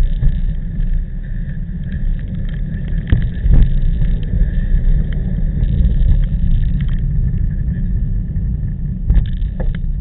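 Wind buffeting the microphone of a camera riding on a moving bicycle: a heavy, steady low rumble, with a few short knocks about three seconds in and again near the end.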